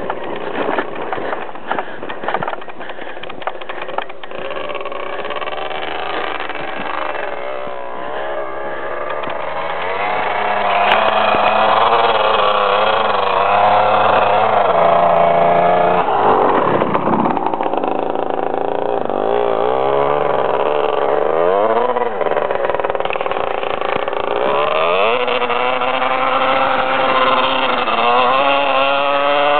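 Husqvarna 250 dirt bike engine being ridden hard, revving up and down through the gears with its pitch rising and falling repeatedly. It gets louder about a third of the way in.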